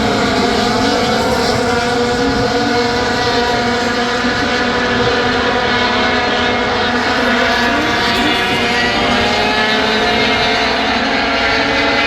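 Engines of a field of sport trucks racing around a short oval track. They make a steady, loud blend of several engine notes that waver slightly up and down.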